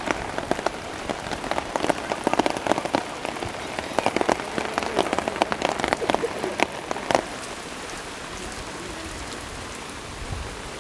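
Rain falling on a surface, with many sharp individual drop hits for about the first seven seconds, then settling into a steadier hiss.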